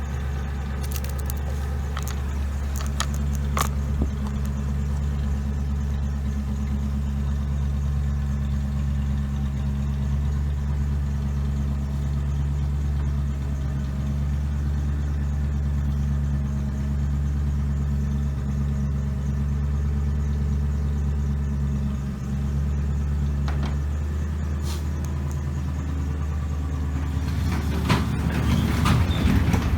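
Ford Crown Victoria's 4.6-litre V8 idling steadily after a spark plug was replaced to cure a misfire. There are a few sharp clicks early on, and a louder rattling noise comes in near the end.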